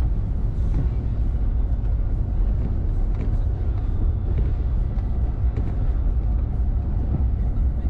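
Car driving, heard from inside the cabin: a steady low road and engine rumble with no change in pace.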